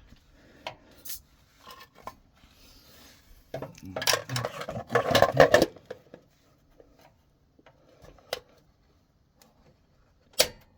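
Metal tools and parts clinking and clattering as they are handled, with a dense burst of clatter about four to six seconds in and single sharp clicks before and after it.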